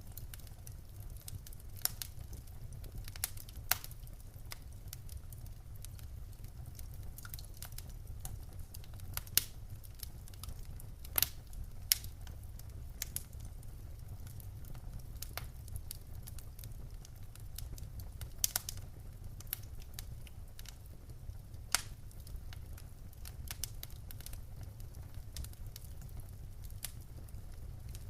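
Wood fire burning in a hearth: irregular soft crackles over a low steady rumble, with several louder, sharper pops scattered through.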